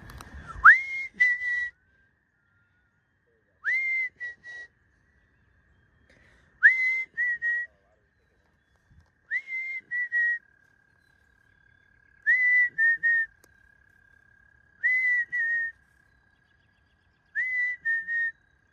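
A person whistling the same short call over and over, seven times about every two to three seconds: each call is a quick rising note followed by two short, slightly lower notes. A faint steady high tone runs underneath in the second half.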